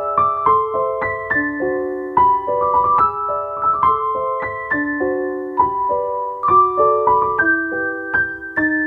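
Background piano music: chords and melody notes struck at an even, lively pace.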